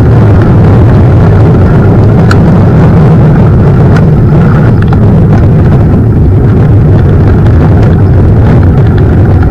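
Steady, loud low rumble of wind on the microphone and mountain bike tyres rolling over the trail, with a few sharp clicks from the bike.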